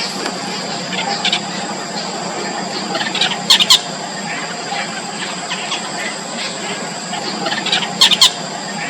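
Yellow bittern nestlings begging in the nest: a run of short, high squeaky calls, with two louder bursts, one about three and a half seconds in and one near the end.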